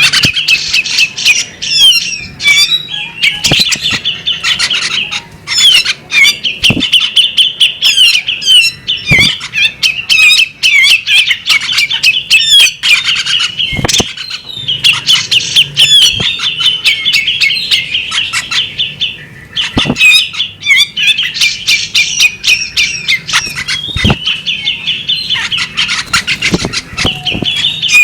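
Female bearded magpie-robin singing on and on in fast, chattering runs of varied whistled notes, broken by short pauses, with a few sharp taps among them.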